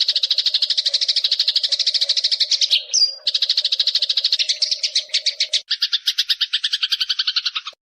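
Eurasian tree sparrow giving a long, rapid chattering call of repeated short notes, about ten a second, broken briefly just before 3 s by a short rising note, shifting to a lower double-pitched chatter near 6 s and stopping near the end.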